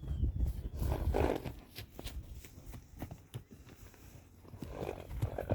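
Horses moving about: scattered hoof knocks and two short noisy swells, one about a second in and one near the end, over a low rumble at the start.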